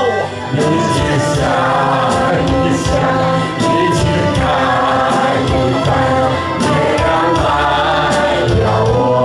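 Music with singing: several voices singing together over an accompaniment, steady and loud.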